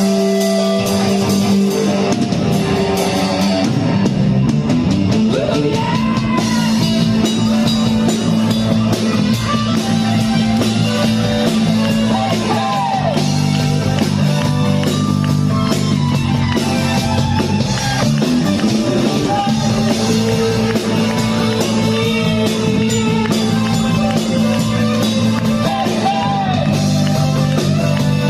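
Rock band playing at a steady loud level, electric guitar and drum kit over a bass line that changes note every few seconds.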